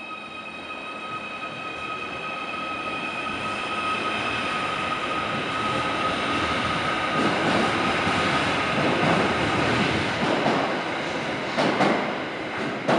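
Merseyrail Class 777 electric train pulling out past the platform, its wheel and running noise rising steadily as the carriages go by. A steady high whine fades out about halfway through, and two sharp louder bursts come near the end.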